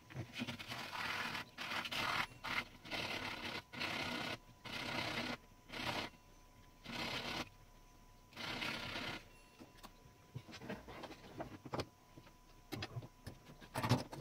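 Repeated scraping strokes on metal parts of a 1912 Mercedes No. 3 typewriter under repair, about one stroke a second, giving way to scattered small clicks and knocks in the last few seconds.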